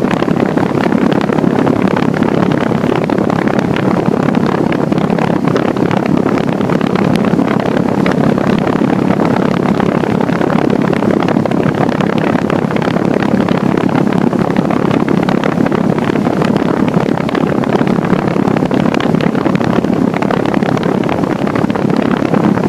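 Outdoor condensing unit of a central air conditioner running: a steady, loud rush of air from its condenser fan.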